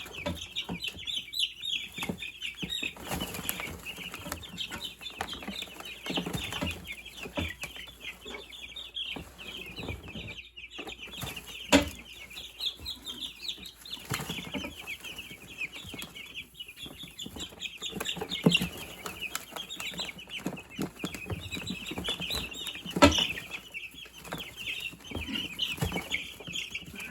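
A brood of young meat-bird chicks chirping all together in a dense, continuous chorus as they are caught. A few sharp knocks stand out, about twelve seconds in and again near the end.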